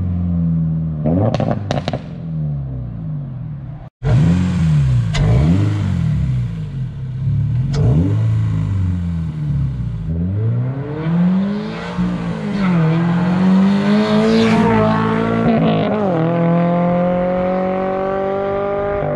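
A 2023 Toyota GR86's 2.4-litre flat-four, fitted with a Velossa Tech Big Mouth ram-air intake, making short pulls. Its pitch climbs and falls again several times as it revs and shifts, with the intake's induction noise, then settles into a steady drone near the end.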